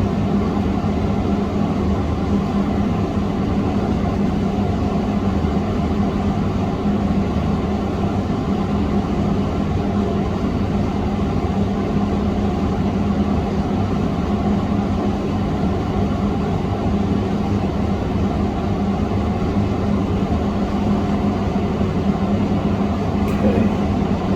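Steady whir of a running electric fan motor with a constant low hum, unchanging throughout.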